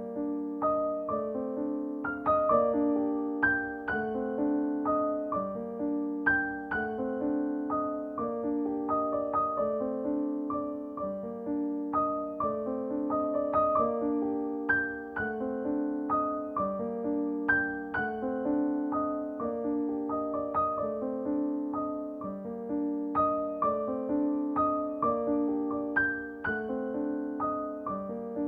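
Background piano music: a gentle melody of struck notes over a repeating accompaniment at a steady, even pace.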